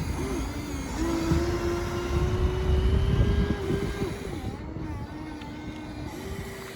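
Small electric motors of radio-controlled construction models whining at a steady pitch that dips and shifts a few times as they work, over a low rumbling, scraping noise.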